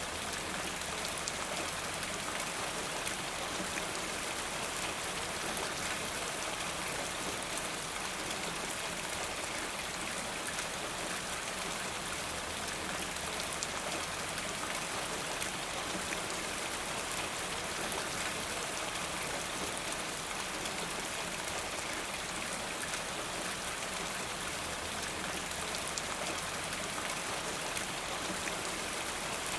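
Steady rain falling, an even hiss of many fine drops striking a surface.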